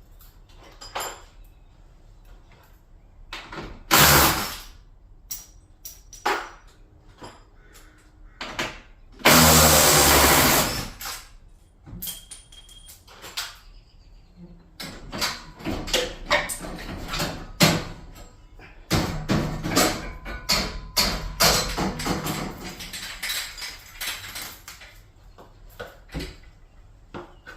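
Work noise from taking down a garage door: scattered knocks, clanks and rattles, with a loud power-tool burst lasting about two seconds around a third of the way in.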